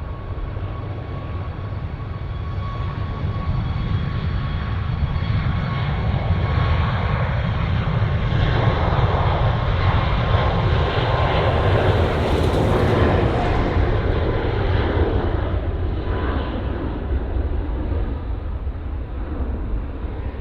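Jet airliner passing close by: a steady engine rumble with a thin whine that swells to its loudest about two-thirds of the way through, then eases off.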